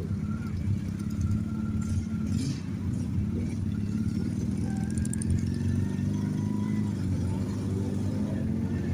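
Motorcycle engines running steadily, with one engine's pitch rising near the end as it speeds up.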